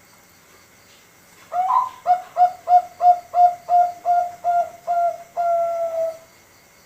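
Male zebra dove (Bangkok-type perkutut) singing one full song phrase: an opening note, then about nine short, evenly spaced coos at roughly three a second, closing on one longer drawn-out coo.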